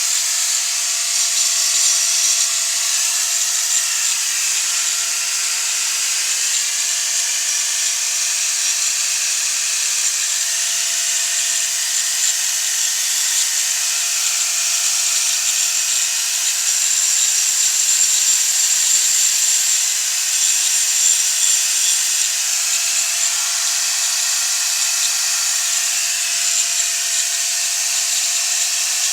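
A power tool running continuously with a steady high hiss, as of a drill or grinder working on metal parts.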